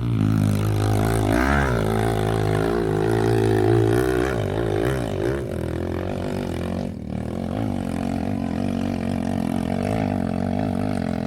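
Trail motorcycle engine running under way, its pitch dipping and rising with the throttle in the first few seconds, then holding steadier.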